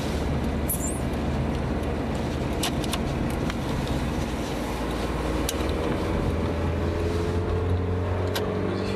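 Porsche 924S 2.5-litre four-cylinder engine and road noise heard from inside the cabin while driving at steady speed, with a few sharp ticks. Near the end the engine note begins to rise as the car accelerates.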